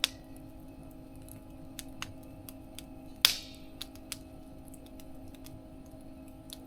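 Wood fire crackling in a small mesh fire stove: scattered sharp ticks and pops, with one louder pop about three seconds in that trails off in a brief hiss.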